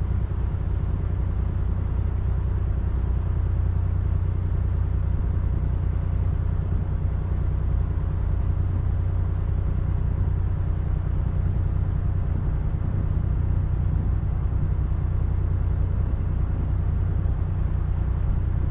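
Narrowboat's inboard diesel engine running steadily while cruising: a low, even drone.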